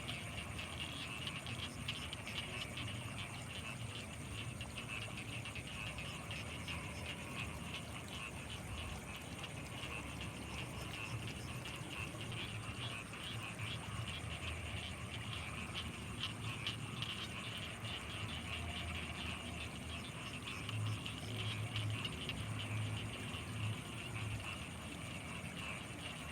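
Night chorus of frogs and insects by rice paddies: a dense, rapid chirring in the middle-high range and a steady high-pitched insect trill over a low rumble. A short run of low pulses comes about three-quarters of the way through.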